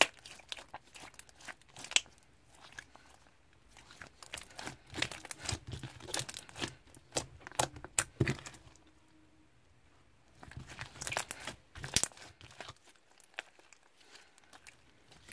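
Slime being squeezed and poked by hand, giving off irregular crisp crackles and popping clicks. The crackling pauses briefly a little past the middle, then thins out near the end.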